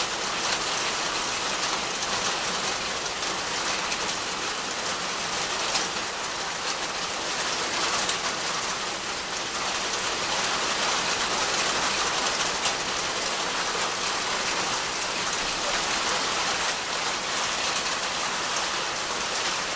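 Steady rain falling on tree and shrub foliage: an even hiss with scattered sharper drop ticks.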